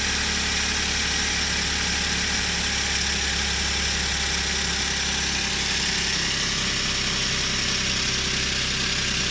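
Suzuki K6A 660cc three-cylinder engine idling steadily, its newly replaced tensioner bearing running quietly with no rattle or rubbing.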